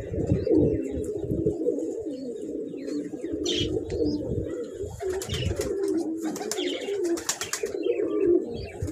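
Domestic pigeons cooing continuously, several low warbling coos overlapping, with brief higher scratchy sounds now and then.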